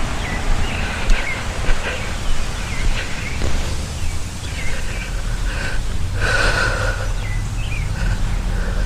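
Small birds chirping in many short calls over a steady low rumble of outdoor ambience, with one louder, harsher sound about six seconds in.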